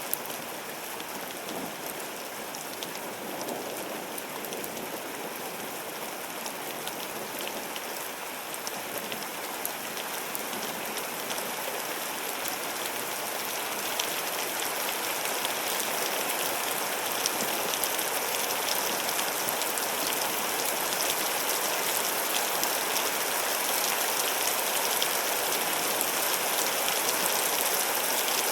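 Heavy storm rain pouring down, with many fine sharp ticks of impacts in the steady wash. It grows steadily louder through the second half.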